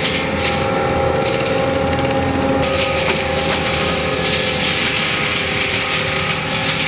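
Forestry mulcher on an ASV 135 compact track loader running steadily, with a whine over the engine as the toothed rotor grinds through brush and wood.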